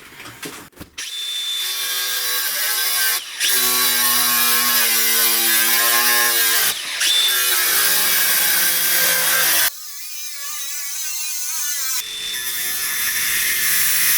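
Workshop power tool running under load, with brief dips in the sound about 3 and 7 seconds in. Around 10 seconds in it goes quieter and a wavering whine takes over for about two seconds before the full loud running resumes.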